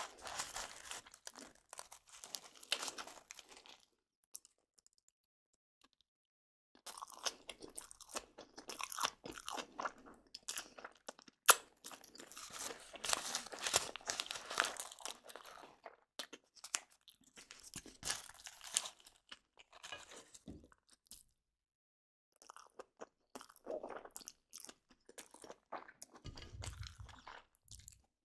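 Close-up crunching in irregular bursts of crackly clicks, with a pause of about three seconds after the first few seconds.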